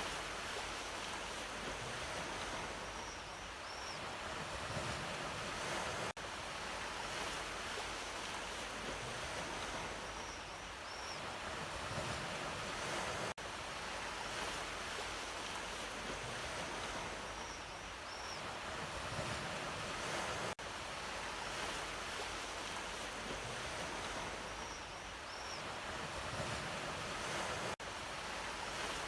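Sea waves washing on the shore in a continuous, gently swelling surf. It is a short recording looped about every seven seconds, with a brief dip in level at each seam and a faint high double chirp once per loop.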